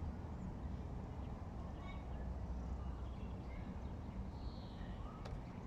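Outdoor ambience: a steady low rumble with faint, scattered short bird chirps, and a single click near the end.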